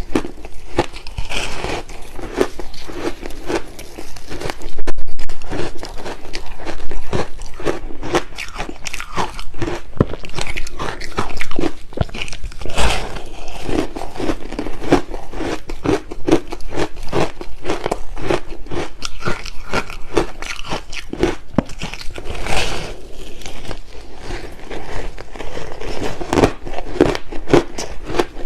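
Close-miked crunching and chewing of shaved ice, many quick irregular crunches, with a louder stretch about five seconds in.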